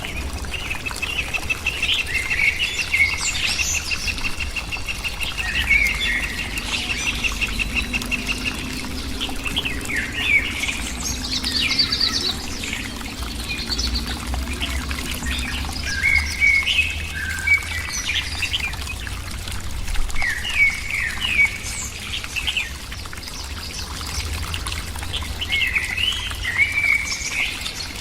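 Birds chirping and calling in short sweeping notes, with a fast, even trill during the first several seconds, over a steady low rumble.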